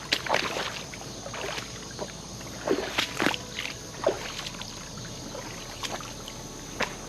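Footsteps wading and splashing through shallow creek water in irregular, uneven strokes, over a steady high drone of insects.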